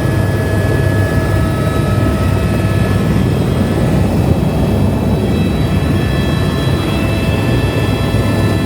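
Helicopter running: a loud, steady low drone of rotor and engine, with several thin whining tones above it.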